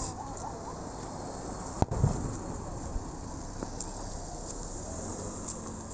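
One firework burst about two seconds in: a sharp crack followed straight away by a low boom, over a steady background hiss.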